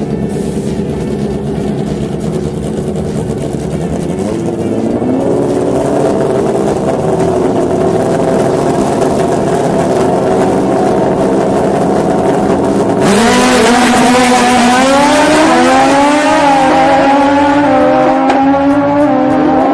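Drag-racing motorcycle engines running and revving. About two-thirds of the way in they suddenly get much louder, with a rush of noise and engine pitch climbing hard as the bikes rev high.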